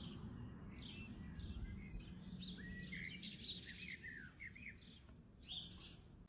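Small birds chirping: a scattered run of short, high chirps over faint background noise.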